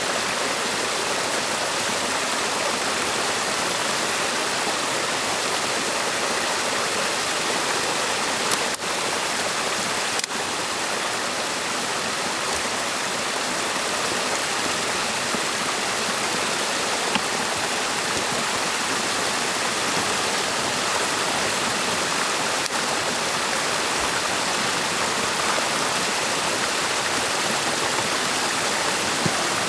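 Stream water rushing steadily, with a couple of faint brief clicks about nine seconds in and again a second and a half later.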